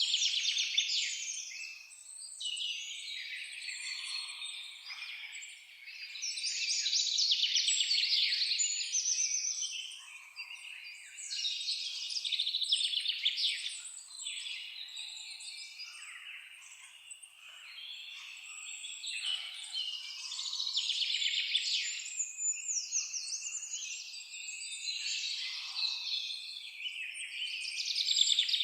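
Several songbirds singing: high, rapid trills and chirps that overlap and swell in bursts of a second or two, one after another.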